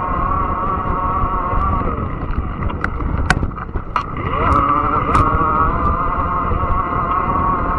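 Fat-tire e-bike's electric motor whining under a low rumble of tyres and wind; the whine sags and drops in pitch about two seconds in, then climbs back up as the bike speeds up again. A few sharp clicks and ticks come through in the middle.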